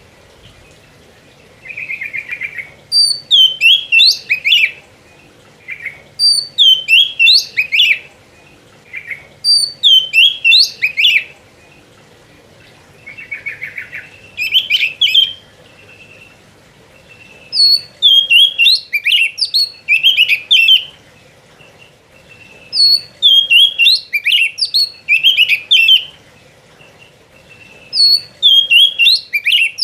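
Oriental magpie-robin (kacer) in full song: loud phrases of rapid, sweeping whistled notes, repeated every three to four seconds, with short scratchy notes in between.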